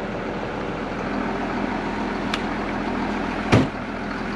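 Heavy vehicle engine idling steadily, with a sharp click about two seconds in and a loud thump about a second later.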